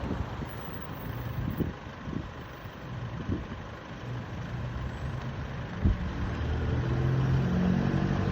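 Motor vehicle engine running with a steady low hum that grows louder near the end, with a few short low thumps along the way.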